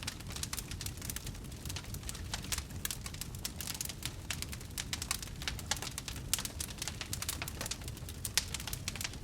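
Wood fire burning, with many small irregular crackles and pops over a steady low rumble of the flames.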